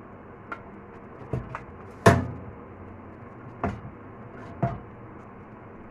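Oven door and roasting tray being handled: about six sharp knocks and clatters, the loudest about two seconds in.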